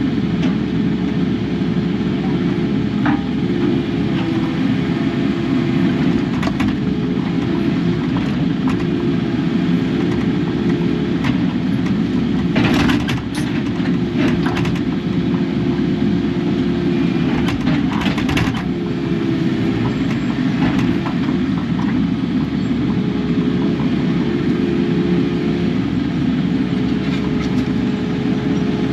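Kubota KX080 excavator running steadily, a dense diesel engine note with a hydraulic whine on top that sags in pitch a few times as the machine takes load. Two brief, louder noises of the machine working stand out about 13 and 18 seconds in.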